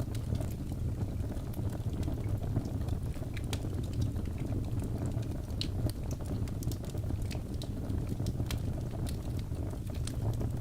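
Birch logs burning in a fireplace: a steady low rumble of flame with frequent small sharp crackles and pops scattered throughout.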